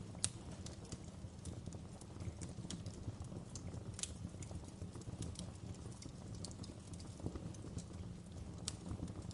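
Wood fire crackling in a fireplace: irregular sharp pops and snaps over a low, steady noise of the burning, with one louder pop about a quarter of a second in.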